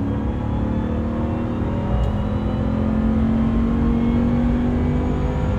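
Ram 1500 TRX's supercharged 6.2-litre V8 running under steady load as the truck drives, its pitch rising slowly and evenly.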